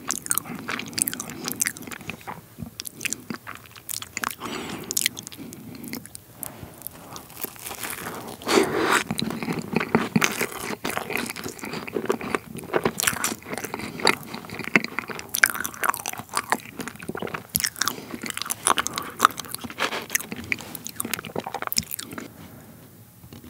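Close-miked chewing of a bite of pavlova: the crisp meringue crackling and crunching between the teeth among soft cream and wet mouth sounds. The crackles thin out near the end.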